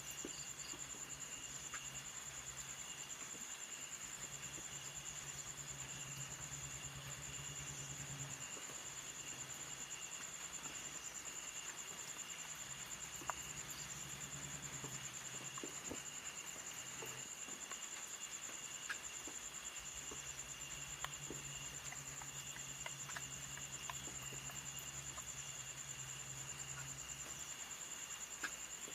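Insects calling steadily: a continuous high-pitched chirring, with a second, lower insect trill that comes and goes every few seconds. A low hum fades in and out, and a few faint clicks are scattered through.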